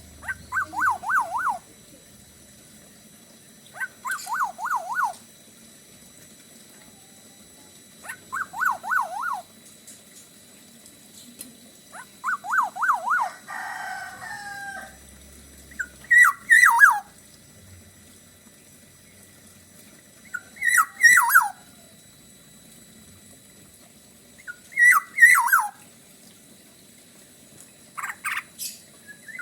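Black-naped oriole (kepodang) singing short whistled phrases about every four seconds. The first phrases are four quick fluting notes swooping up and down; from about halfway the phrases turn into harsher notes falling from a higher pitch, with sharp clicky edges.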